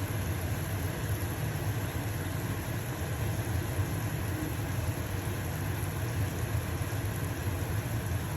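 Stove-top exhaust fan running steadily with a low hum, together with the sizzle of a pancake frying in a pan.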